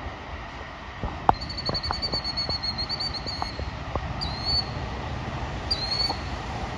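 A songbird sings a fast trill of repeated high notes, then two short separate calls, over the low, steady rumble of approaching diesel locomotives. A few sharp clicks come in the first few seconds.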